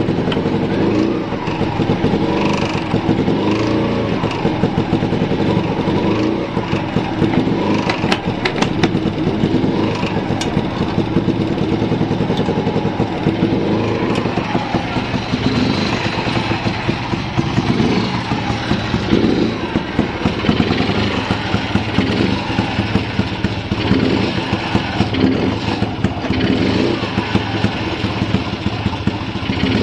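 Fuji Rabbit 125 scooter's single-cylinder two-stroke engine idling steadily, with a few light clicks about eight to ten seconds in.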